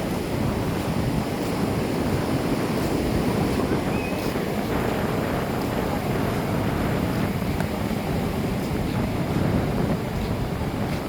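Ocean surf washing onto the beach, a steady rush of waves with wind buffeting the microphone.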